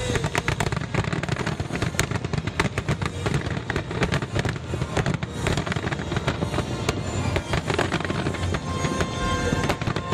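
Fireworks finale: a dense barrage of bangs and crackling from many shells bursting in quick succession, over music.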